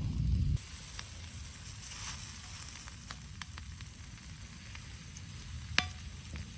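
Food sizzling in a frying pan over a campfire: a steady high hiss with scattered small pops and one sharp pop near the end.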